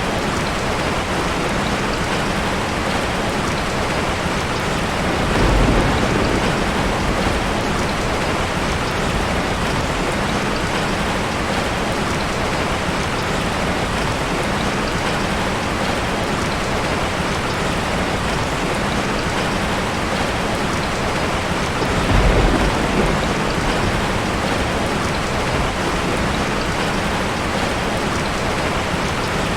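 Steady rain falling, an even hiss throughout. Twice a brief low rumble of thunder rises under it, once about five seconds in and again about twenty-two seconds in.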